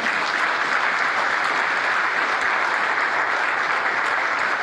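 Steady applause, a crowd clapping, fading out near the end.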